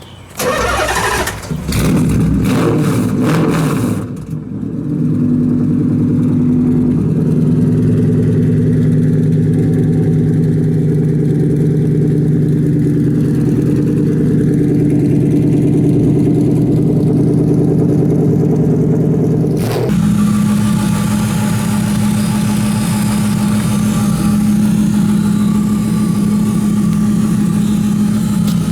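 Nissan S14's swapped 4.5-litre Infiniti Q45 VH45 V8 cranking and catching, then idling steadily through its 3-inch stainless exhaust with X-pipe. About twenty seconds in, the idle changes suddenly to a higher, harsher note.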